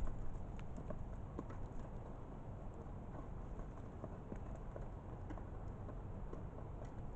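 Birds pecking at food, giving scattered light taps and clicks over a steady low background rumble.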